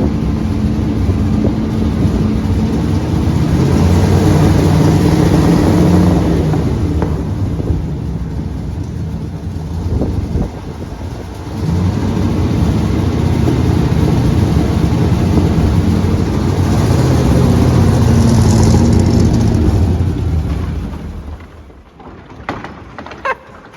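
Vintage International grain truck's engine running loud through its new custom exhaust stack, its note rising and falling as it swells twice with a short dip in between. The sound falls away about 21 seconds in.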